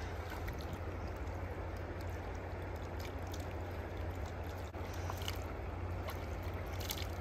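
Milky-white stream water running steadily, with a few brief splashes in the second half.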